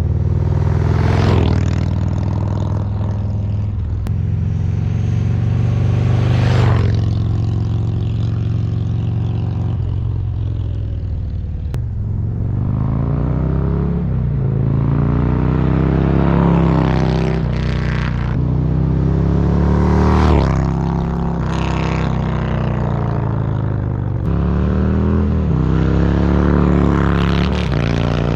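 Harley-Davidson Road Glide's Milwaukee-Eight 117 V-twin running through Rinehart DBX40 slip-on mufflers. It holds steady for about ten seconds, then rises and falls in pitch over and over as it accelerates and eases off.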